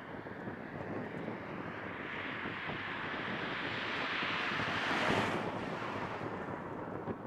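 Boeing 737-800 jet at takeoff power passing by, its CFM56-7B turbofans growing louder, peaking about five seconds in, then quickly losing their hiss and fading as it climbs away. Wind buffets the microphone throughout.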